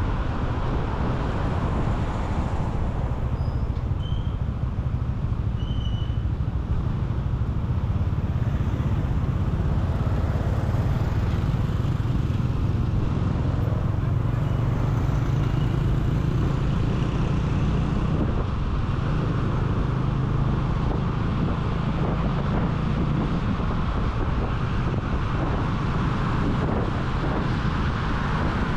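Motorcycle riding steadily in city traffic: engine and road noise with wind rushing over the microphone.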